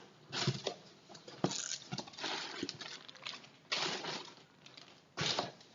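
Packaging being handled during an unboxing: a series of short rustles and scrapes with a few sharp clicks, coming in uneven bursts.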